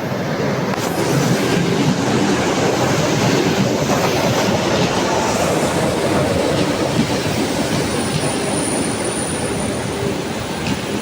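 A train running through close by, a dense steady rumble with wheels clattering over the rail joints. A thin, steady high-pitched whine joins about eight seconds in.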